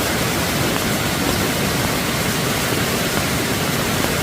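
Flash-flood water rushing down a swollen forest stream, a loud, steady rush of water.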